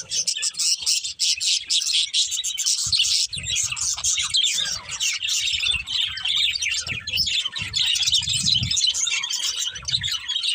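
A flock of pet budgerigars chirping and chattering continuously, many short, quick chirps overlapping.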